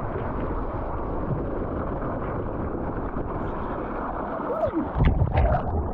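Rush of wind on the microphone and water under a foam mat sliding down a water slide, steady throughout, with a few heavy thuds about five seconds in.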